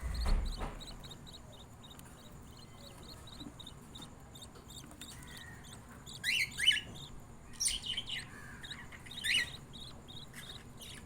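Budgerigar chicks cheeping in a fast, even rhythm of about four short high calls a second, the begging calls of nestlings being fed. Louder budgie chirps cut in about six, eight and nine seconds in, and there is a brief thump right at the start.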